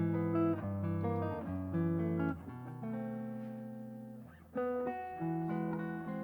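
Guitar playing slow, ringing chords over low bass notes. About two and a half seconds in, one chord is left to ring and fade before the playing picks up again.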